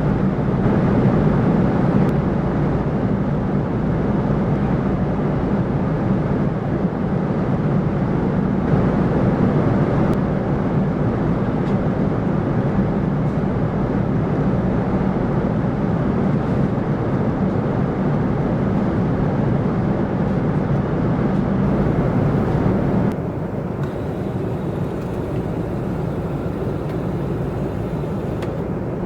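Steady cabin noise of a Boeing 747-400 in flight: a constant rumble and rush of engine and airflow noise. It drops to a slightly quieter, duller level about 23 seconds in.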